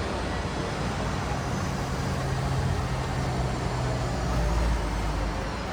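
Steady low engine hum under a constant wash of outdoor traffic-like noise, a little louder about four seconds in.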